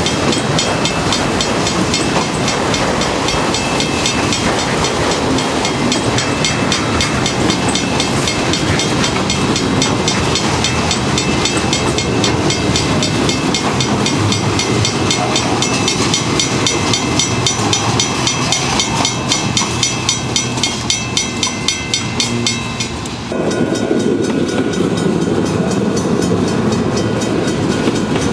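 Freight train cars rolling past, their wheels clicking rapidly and regularly over rail joints with a steady rumble. About 23 seconds in the clicking drops away and a lower rumble takes over.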